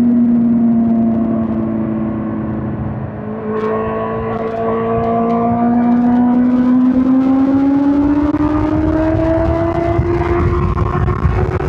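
2005 Suzuki GSX-R1000 K5's inline-four engine under way, its note easing slightly at first, then rising steadily in pitch from about six seconds in as the bike accelerates. A low rushing noise grows along with it.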